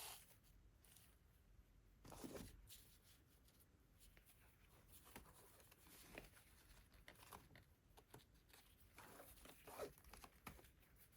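Near silence, with faint rustles and light taps of paper and cardstock being handled, a slightly louder rustle about two seconds in.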